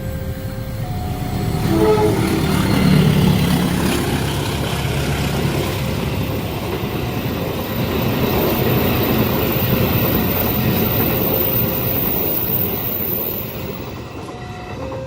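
Train passing close by at a level crossing: a horn sounds about two seconds in, then the steady rumble and clatter of the carriages runs on. The crossing's alternating two-tone electronic alarm is heard at the start and again near the end.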